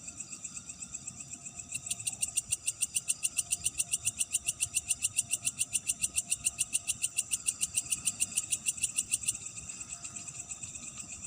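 Night chorus of insects with steady high-pitched chirring. About two seconds in, one loud, evenly pulsed call of about seven pulses a second starts over it and stops after about seven seconds.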